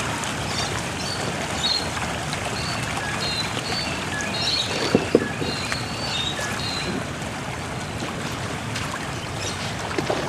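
Steady rushing waterside background noise as kayaks head out on the river, with short high chirps now and then through the first seven seconds and a couple of knocks about five seconds in.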